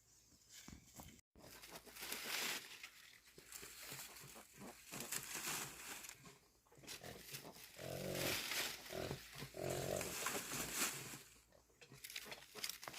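Repeated rustling and crunching of dry brush and leaves being handled, with three short low grunts about two thirds of the way through.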